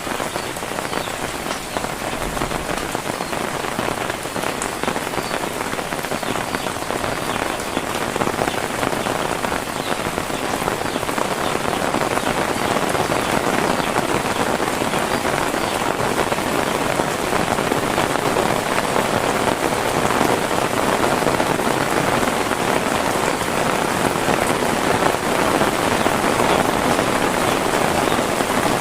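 Heavy rain falling steadily in a dense, even hiss, growing slightly louder over the course.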